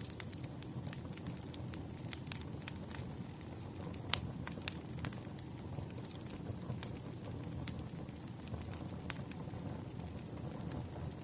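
Firewood burning: a steady low rush of flames with scattered sharp crackles and pops, the loudest pop about four seconds in.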